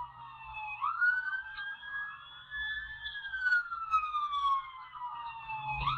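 Police car siren wailing in slow sweeps: the pitch rises quickly about a second in, falls slowly over several seconds, then rises again near the end.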